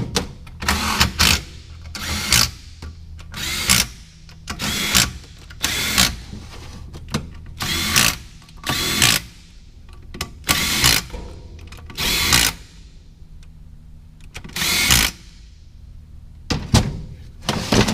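A handheld power tool, drill or driver, run in short trigger bursts of under half a second, about fifteen of them with irregular pauses between, as when running in bolts. A low steady hum sits underneath.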